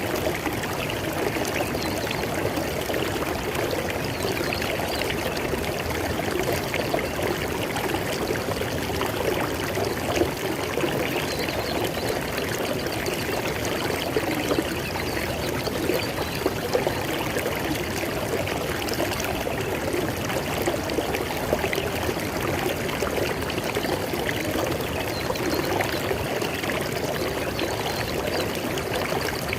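River water flowing steadily, a continuous rushing and splashing over rocks.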